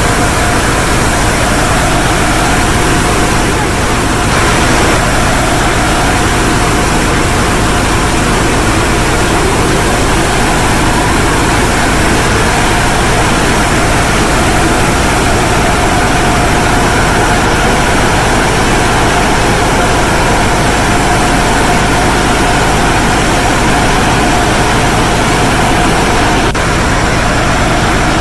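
Sonny's automatic car wash tunnel equipment running: a loud, steady rushing noise with a faint steady hum, unchanging throughout.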